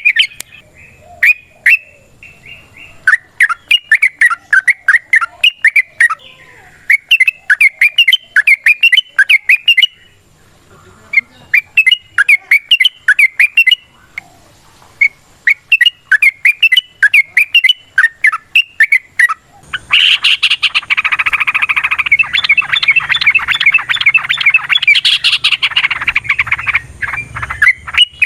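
Yellow-vented bulbuls singing in repeated phrases of rapid bubbling chirps with short gaps between them. About two-thirds of the way in, the song turns denser and continuous, with several birds' chirps overlapping.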